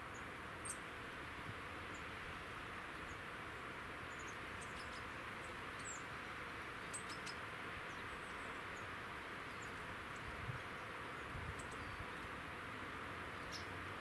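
Small birds giving short, high, thin calls and chirps, scattered irregularly over a steady background hiss.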